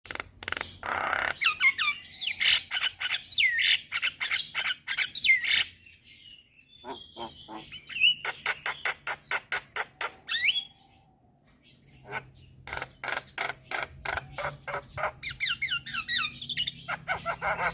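Myna calling: fast runs of harsh clicking chatter mixed with short whistles and squawks, falling silent for about a second around eleven seconds in before starting again.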